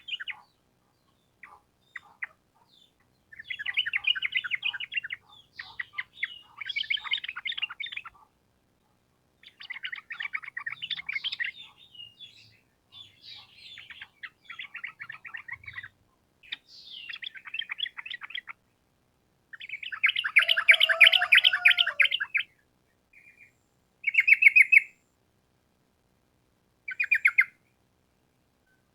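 Yellow-vented bulbul (trucukan) singing its fast bubbling 'ropel' song in repeated bursts of rapid notes. The bursts last one to three seconds with short pauses between them, and the loudest, fullest phrase comes about two-thirds of the way in.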